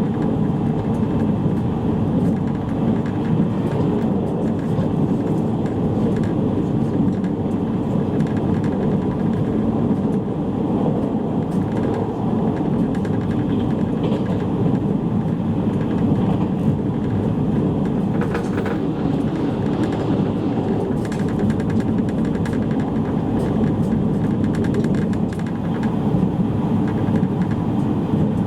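Steady running rumble of a JR East E653 series electric train at speed, heard from inside the passenger car: wheels on the rails and the car body, unbroken and even throughout.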